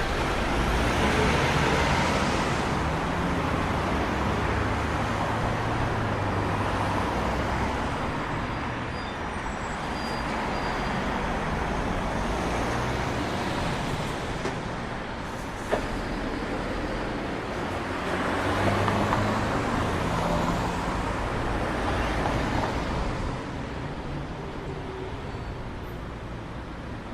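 Road traffic noise: motor vehicles passing, with the tyre and engine noise swelling at the start and again about two-thirds of the way through, plus one sharp click about halfway.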